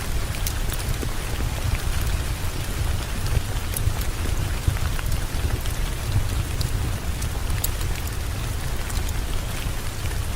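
Steady heavy rain with a deep low rumble underneath and scattered sharp clicks throughout.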